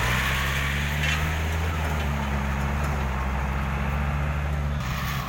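Six-wheel dump truck's diesel engine running at a steady pitch.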